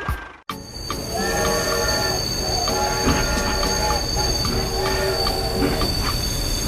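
Train sound effect: a train horn sounding in several long chord-like blasts over a steady high-pitched squeal, starting abruptly about half a second in.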